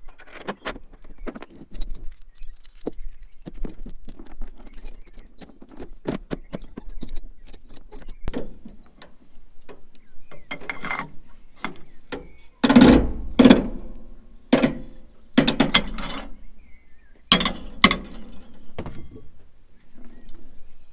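Tie-downs being secured on a low-loader trailer: irregular metallic ratcheting, clicking and clinking, with a run of louder clanks in the second half.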